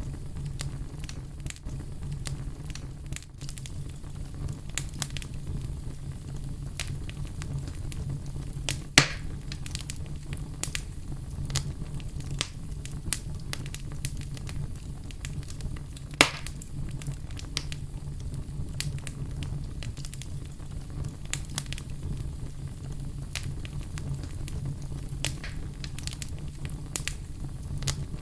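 Wood fire burning with a steady low rumble and frequent small crackles, with two louder pops about a third and halfway through.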